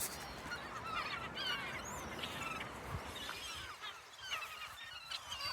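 A large flock of seagulls calling, many short overlapping cries at once.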